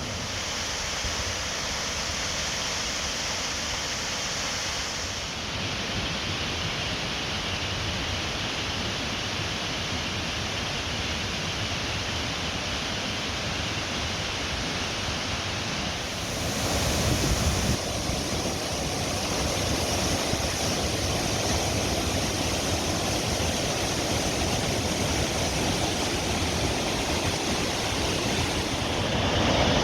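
Waterfall rushing: a steady roar of falling water, growing louder a little past halfway.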